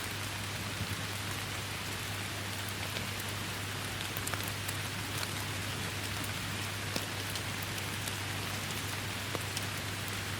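Steady rain falling: a continuous even hiss with scattered sharper drop ticks and a steady low rumble underneath.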